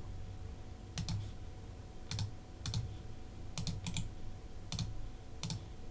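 Scattered keystrokes on a computer keyboard: about eight separate clicks, irregularly spaced, roughly one a second, over a faint low hum.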